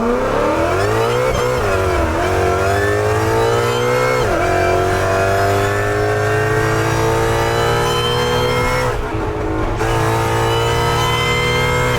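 An 800-horsepower Ford Mustang's engine accelerating on the road. Its pitch climbs through the gears and dips briefly at each shift, about two, four and nine seconds in.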